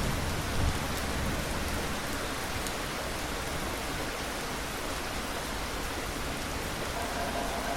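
Steady rain falling, with the low rumble of thunder dying away in the first second.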